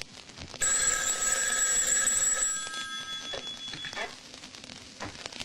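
A telephone ringing once: a single ring starting suddenly and holding steady for about two seconds before fading away.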